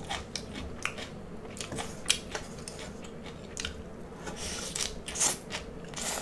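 Close-miked chewing of crunchy garlic-sautéed ong choy (water spinach) stalks, with many small crisp crunches. A hissy slurp comes about four and a half seconds in as a long stalk is sucked into the mouth.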